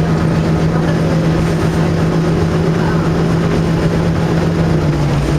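KiHa 52 diesel railcar's engine running under steady power, a loud, even drone that drops in pitch and eases off right at the end as the throttle is backed off.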